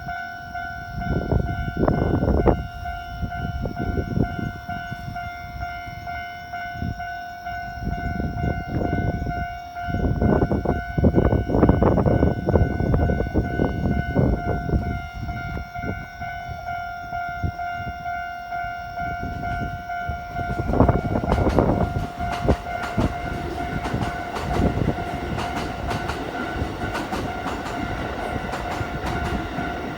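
A railway level-crossing alarm sounds continuously as a Keikyu 1000-series electric train runs past, its rumble rising and falling in waves. In the last third the wheels clatter densely over the track.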